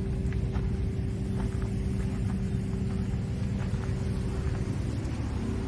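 Inboard engine of a Yamaha UF25 boat running steadily, an even low drone with a few faint ticks.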